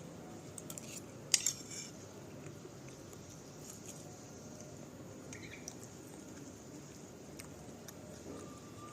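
Quiet room tone with a few small clicks and light clinks, the sharpest about a second and a half in.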